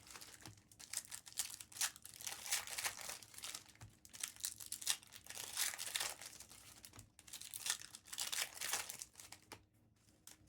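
Trading-card pack wrappers being torn open and crinkled by hand, a dense run of rustling and tearing that dies down to a few faint ticks near the end.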